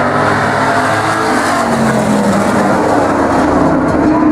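Engines of several demolition-race trucks running hard around an oval track. Their pitches glide down and back up as they race past.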